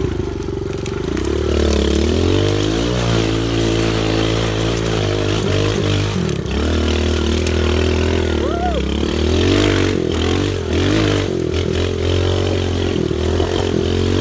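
Small pit bike engine revving up and down as it is ridden up a short trail hill, its pitch rising and falling with the throttle.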